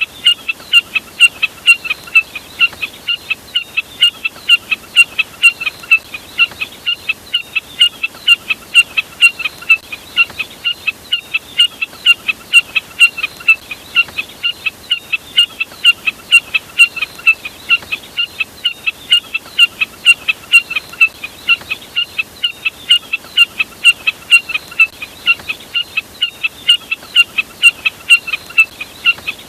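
Jack snipe (burcet) call played on a continuous loop: short, sharp notes repeated evenly about two to three times a second, without a break.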